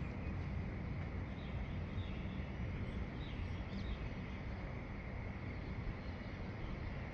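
Dawn outdoor ambience: a few faint bird chirps in the first half, over a steady low rumble of background noise.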